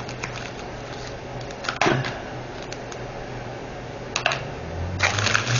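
Small plastic containers and packets of diamond painting drills being handled: a few sharp clicks and a rustle near the end. A low hum rises in pitch over the last second.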